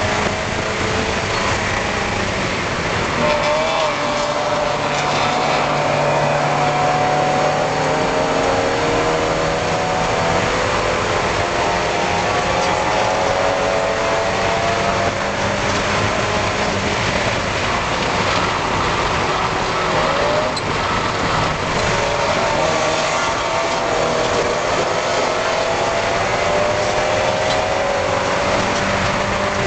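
Spec Miata race car's four-cylinder engine running hard at racing speed, heard from inside the car, its pitch repeatedly climbing and dropping as it is driven around the track, over steady wind and road noise.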